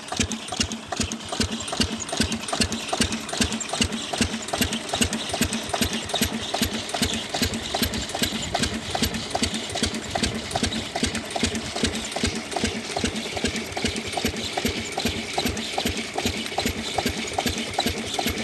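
10 hp single-cylinder diesel engine driving an irrigation water pump, running steadily with an even, rapid knocking beat.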